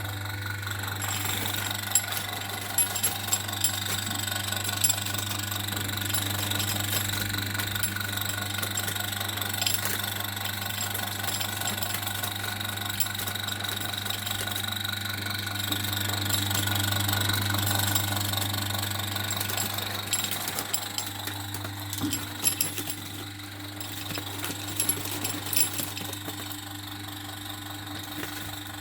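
Steady low electric motor hum, like a fan, with scattered sharp clicks and ticks over it.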